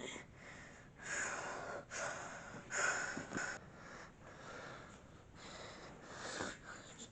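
Four short bursts of heavy, noisy breathing. The loudest comes a little under halfway through.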